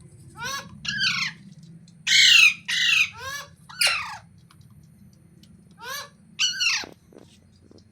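Ringneck parrot giving a string of short, harsh squawks, each falling in pitch, in clusters, the loudest about two seconds in.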